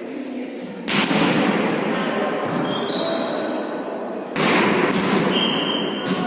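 A ball struck twice, about a second in and again past four seconds, each hit ringing in a large hall. Short squeaks come between the hits over steady hall noise.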